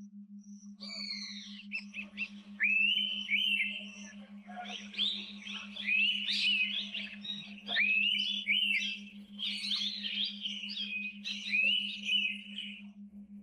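Several birds calling at once: a dense, overlapping run of quick chirps and short rising whistles that stops near the end, over a steady, evenly pulsing low hum.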